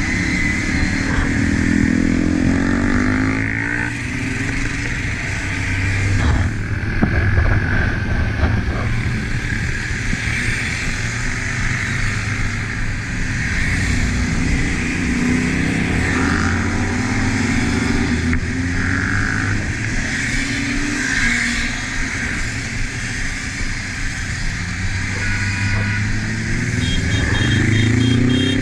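Motorcycle engine heard from on board while riding, its pitch rising several times as it accelerates and falling back between, under steady wind noise on the microphone.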